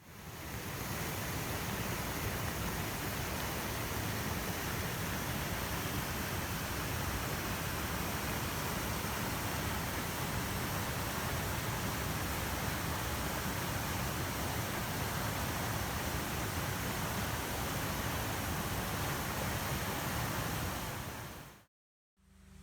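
Waterfall after heavy rain, a steady loud rush of falling water, with a fluttering low rumble. It cuts off abruptly near the end, leaving a faint steady hum.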